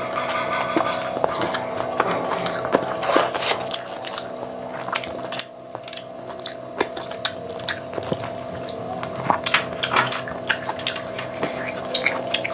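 Close-up chewing of a mouthful of rice and paneer chili, with irregular wet mouth clicks and smacks, over a steady background hum.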